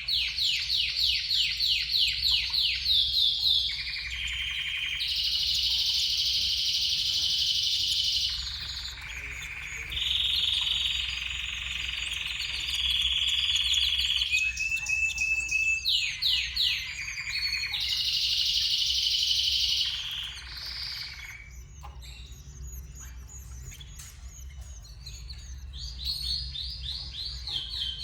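Domestic canary singing: runs of fast repeated high notes alternating with longer held rolling trills, changing phrase every second or two, with a quieter stretch late on.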